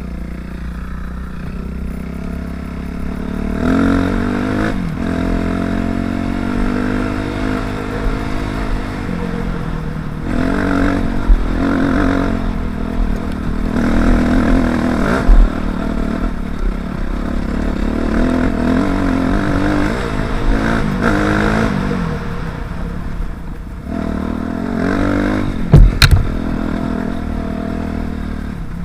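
The 250cc single-cylinder four-stroke engine of a 2005 Suzuki RM-Z250 dirt bike running under way, its pitch repeatedly rising and falling as the throttle opens and closes, over a steady low wind rumble on the microphone. A few sharp knocks break through, the loudest near the end.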